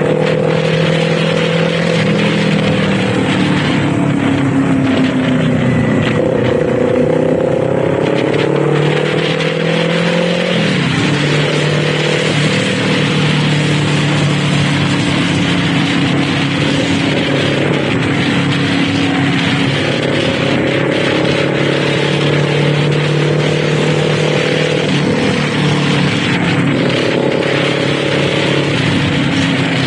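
Kawasaki Z400 parallel-twin engine running while riding, its note rising and falling several times with throttle and gear changes, including a sharp change in pitch about ten seconds in, over steady wind and road noise.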